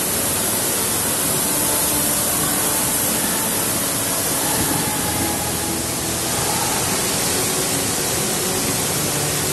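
Steady, even rushing of a waterfall, with faint music beneath it.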